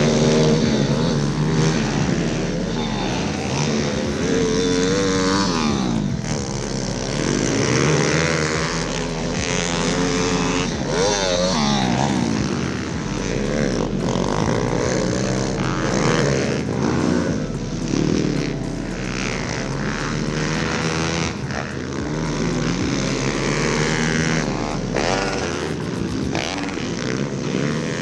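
Several pit bike engines revving hard and overlapping, their pitch rising and falling again and again as the bikes accelerate and shift around the track.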